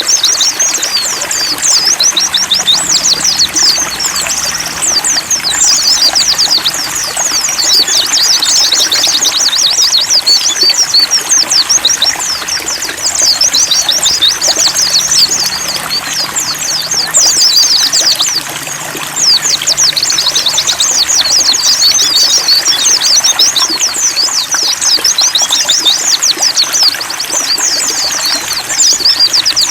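Pleci (white-eye) birds singing a continuous, fast, high twittering chatter over the steady sound of trickling water.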